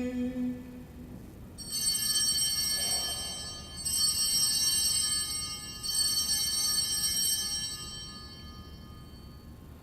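Altar bells rung three times at the elevation of the chalice after the consecration, each ring bright and high and dying away before the next, about two seconds apart. The last note of the priest's chant fades out just at the start.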